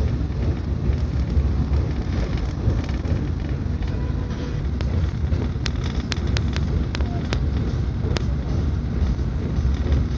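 Steady low rumble of a high-speed airport train running at speed, heard from inside the carriage, with a run of about eight sharp clicks near the middle.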